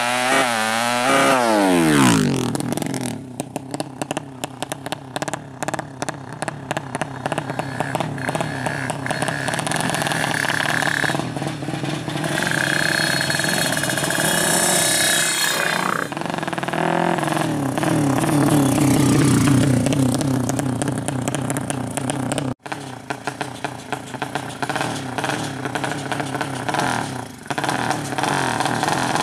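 A 200cc motorcycle engine running hard at high revs, its pitch sweeping up and down near the start and then holding high and steady. There is a brief break about two-thirds of the way through.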